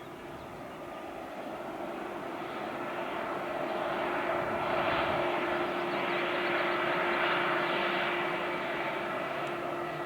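Airbus A320-232's IAE V2500 turbofan engines at takeoff power: a steady jet roar with a constant hum beneath it, swelling to a peak midway and easing off toward the end as the aircraft passes.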